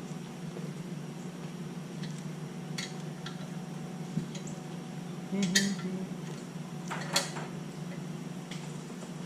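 Wrenches and metal fittings clinking while the fittings are snugged up. There are a few sharp metallic clinks: light ones about three seconds in, the loudest about five and a half seconds in, and another near seven seconds. A steady low hum runs underneath.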